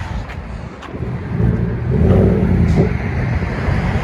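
Chevy Silverado 5.3-litre V8 running through an exhaust with the muffler and resonator deleted: idling, then revved once about a second in, loudest around the middle, and easing back down near the end.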